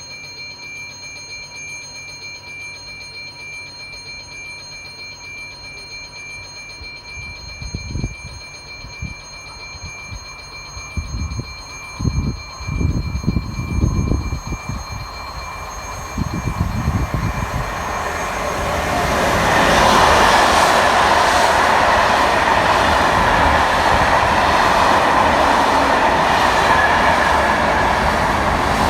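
An electric train passing through a station at speed: a faint steady high-pitched whine at first, a few low irregular thumps as it nears, then a loud, steady rushing rumble of the train going by from about two-thirds of the way in.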